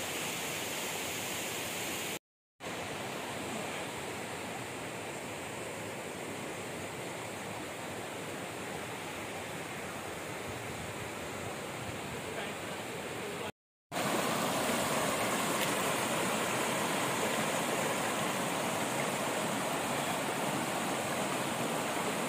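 Steady rush of flowing water from a waterfall-fed stream. It breaks off twice into brief total silence, about two seconds in and again after thirteen seconds, and is a little louder after the second break.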